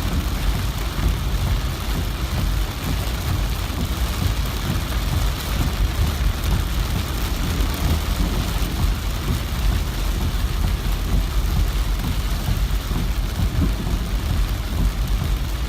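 Heavy rain falling in a steady downpour, an even hiss with a constant low rumble underneath.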